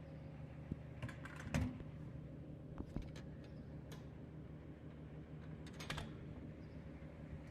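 A steady low mechanical hum, with short clusters of sharp clicks and knocks about a second in and again about six seconds in.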